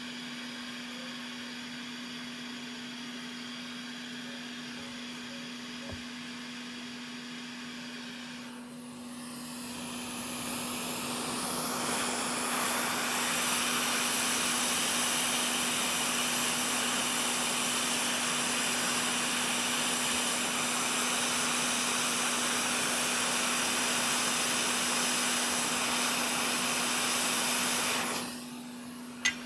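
An electric blower fan spins up about a third of the way in, runs steadily with a loud rush of air, then switches off a second or so before the end. A steady electrical hum runs underneath throughout.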